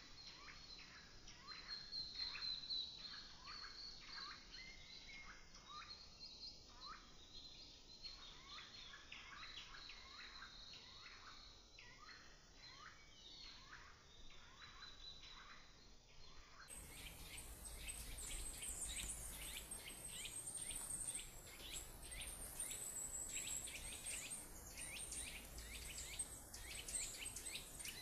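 Forest birds chirping and calling in a dense chorus of short, quick chirps over a thin steady high-pitched whine. About two-thirds of the way through the sound changes abruptly to a brighter, higher chorus with a steady high shrill band above it.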